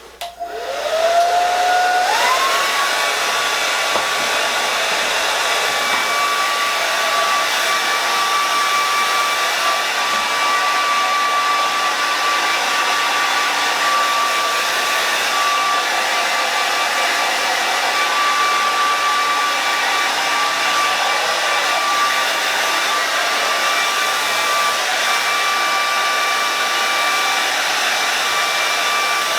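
Handheld hair dryer switched on: its motor whine rises in pitch over the first couple of seconds, stepping up about two seconds in, then runs steadily with a loud rush of air, as it blow-dries hair.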